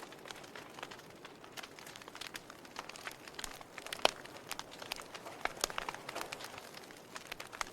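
Wood fire crackling with many small irregular snaps and pops and one louder pop about four seconds in.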